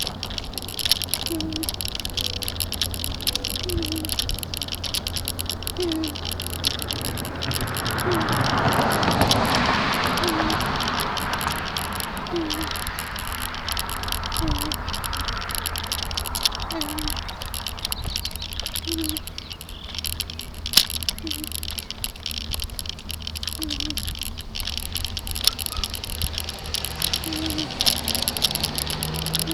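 Bicycle and its mounted camera rattling steadily over a bumpy road, with a short squeak repeating about every second and a half. About 8 seconds in a louder rush of noise swells up, then fades out a few seconds later.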